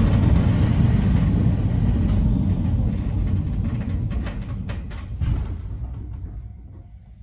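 Narrow-gauge electric train heard from inside the car: the rumble of wheels and running gear dies away steadily as the train slows towards a stop, with a quick run of clicks midway and a thin high whine briefly near the end.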